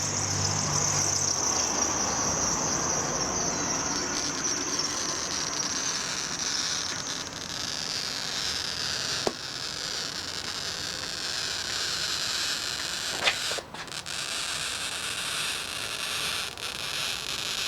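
Oil-fed glass cutter wheel scoring a laminated Ford Flex windshield in one continuous pass: a steady high scratching hiss whose pitch slowly falls, with two brief sharp ticks along the way.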